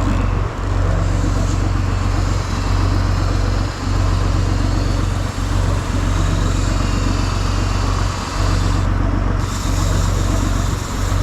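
Fishing boat's engine running steadily with a low drone, under a constant rush of noise while the boat trolls.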